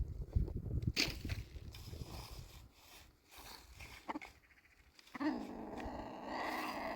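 An animal's long call of about two seconds near the end, preceded by low rustling and a few knocks.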